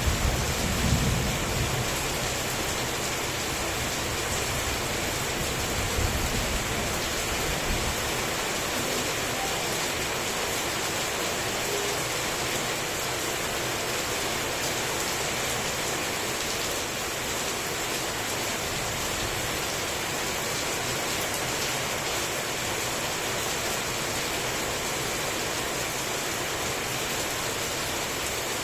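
Heavy rain falling steadily, a dense even hiss, with low rumbles of thunder in the first several seconds.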